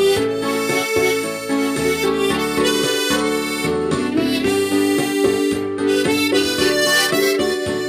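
Instrumental background music: a harmonica plays a melody in held notes.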